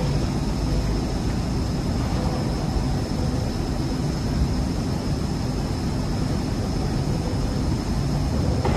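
Electric three-way VNA forklift running, a steady mechanical noise with a constant high-pitched whine over it.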